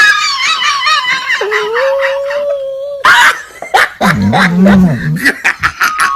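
A dog howling, with wavering yips and then one long held, slightly rising note. A sudden loud noise comes about halfway through, followed by lower wavering sounds and a run of short clicks.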